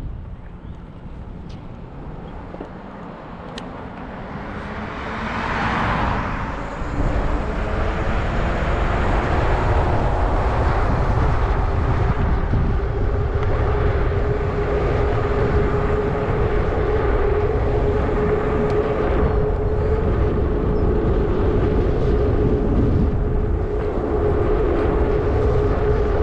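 Zota Zephyr 20-inch fat-tire folding e-bike on the move. Wind noise on the microphone builds over the first several seconds as it gets up to speed, then holds steady. A steady hum runs through the second half.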